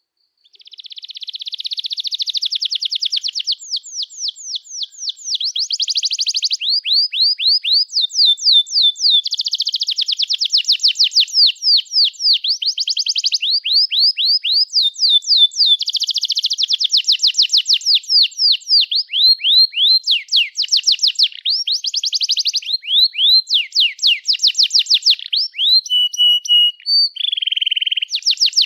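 Domestic canary singing a long, unbroken song: fast trills of rapidly repeated sweeping notes, many per second, switching from one trilled phrase to the next every second or two.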